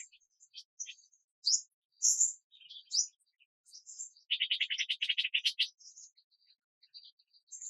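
Wild birds chirping, several short high-pitched notes scattered through, with a fast dry trill of many notes for about a second and a half midway.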